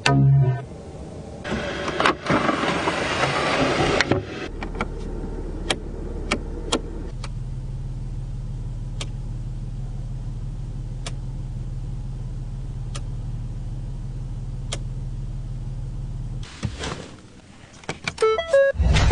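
Pickup truck engine starting with a short noisy burst, then settling into a steady low idle hum, with a few light clicks over it.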